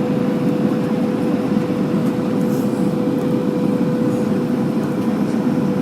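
Airbus A319 cabin noise in flight: a steady rushing drone of airflow and engines, with a constant hum-like tone running through it.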